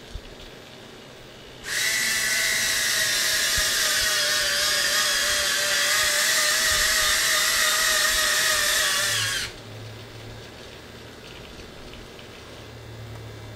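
Small electric gear motors of servoless landing-gear retracts on an RC P-51 Mustang model, running with a steady whine while the gear cycles. The whine starts about two seconds in and stops suddenly about seven to eight seconds later.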